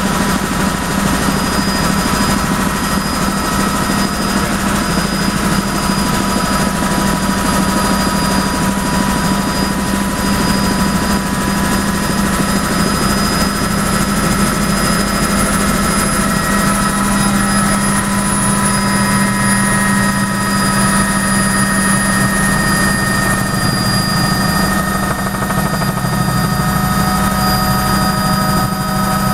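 Helicopter in flight heard from inside the cabin: a loud, steady drone of rotor and engine with a constant high whine over it.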